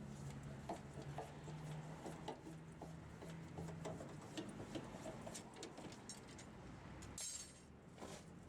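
Light metallic clinks and clicks from hand tools and wheel nuts during a tyre change, with a low hum that fades out about halfway and a short hiss near the end.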